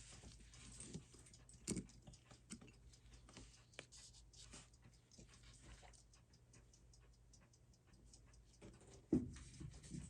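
Faint, irregular small clicks and taps from watchmaker's tools and small watch parts being handled, with a louder knock about two seconds in and another near the end.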